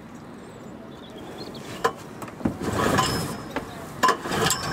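Outboard motor being pull-started: a few sharp knocks and clicks, with a rush of noise about three seconds in as the starter cord is pulled. The engine begins running near the end.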